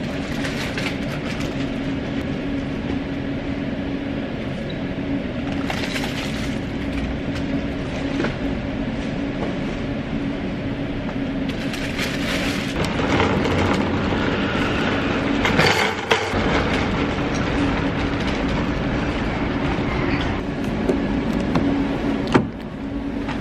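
Train running: a steady rumble with a low humming tone and a few short clicks and rattles, getting somewhat louder about halfway through.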